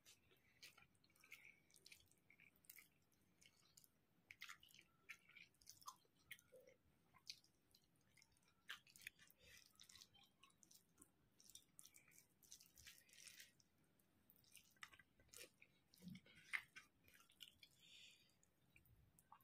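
Faint eating sounds: irregular wet chewing and mouth smacks of rice and curry, with soft squishing as fingers mix the rice on the plate.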